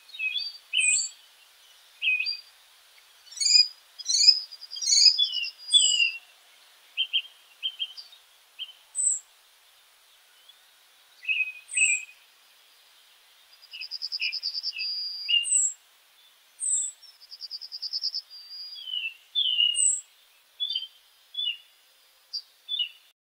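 Songbirds chirping and whistling in short, separate phrases, with two fast trills about two-thirds of the way through, over a clean, otherwise silent background.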